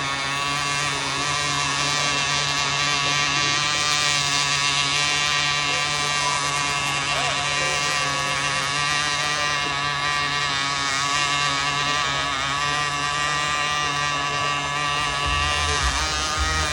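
Radio-controlled racing boat's small engine running at high revs, a steady high buzz that doesn't let up; the engine won't shut off. Low thumps come in near the end.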